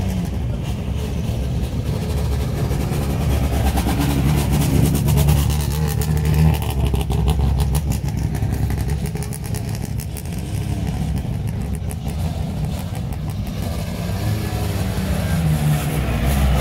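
Several queued rally cars' engines idling steadily close by, a continuous low hum with small rises and falls in level.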